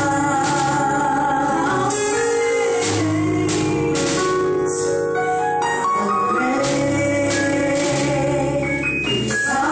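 Gospel worship music: singing over keyboard and band accompaniment, with a steady beat of percussive strokes about twice a second.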